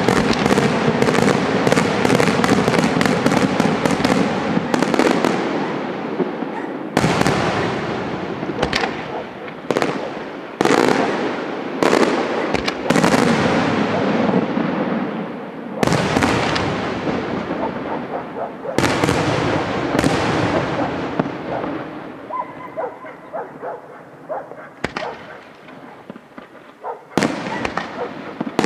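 Aerial fireworks display: a dense salvo of shell bursts and crackle at first, then single heavy bangs every few seconds, each trailing off in a long fade. Near the end comes a lighter spell of crackling before the bangs pick up again.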